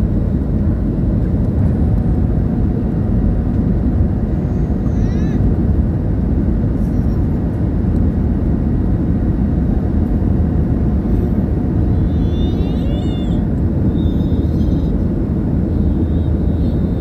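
Steady, loud cabin noise inside a jet airliner in flight: engine and airflow noise, even and unbroken.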